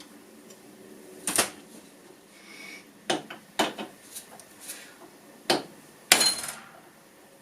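Hammer blows on metal, about six irregular strikes, the loudest about six seconds in with a short metallic ring: a wiper spindle's splined end being knocked out of its pressed-on arm.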